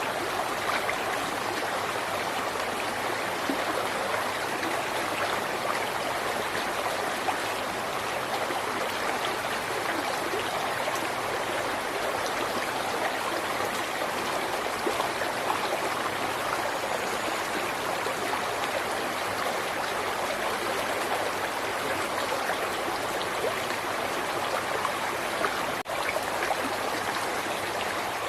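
A river's water flowing steadily, a continuous even rush with a momentary drop in level near the end.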